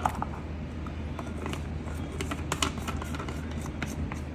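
Scattered light clicks and taps of a seasoning shaker bottle being handled and shaken over a bowl of flour, with a steady low hum underneath.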